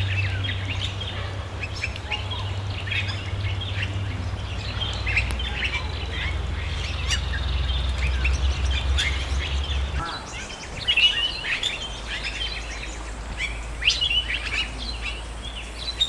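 Birds calling in woodland: a busy run of short, high chirps and whistles, over a low steady rumble.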